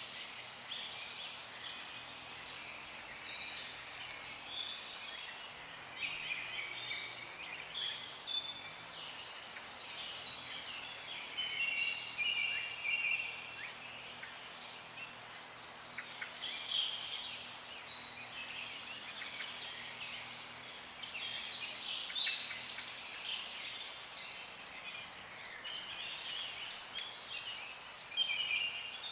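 Several birds chirping and singing together in a morning chorus: many short, high, overlapping calls and quick runs of repeated notes.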